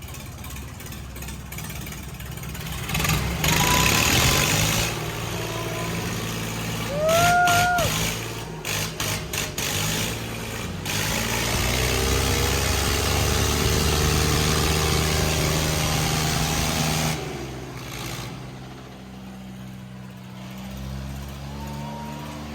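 Tractor engines running hard under load in a tug-of-war pull, their pitch rising and falling as they are revved. Two short high-pitched calls ring out over them.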